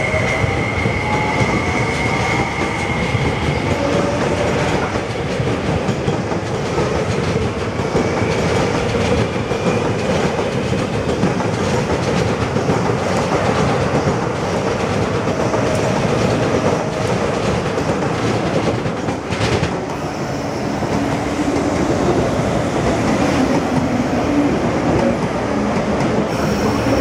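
MTR East Rail Line electric train running past close by, wheels clattering over the rail joints in a steady loud rumble. A rising motor whine and a high wheel squeal are heard in the first few seconds, and there is a single clank about 19 seconds in.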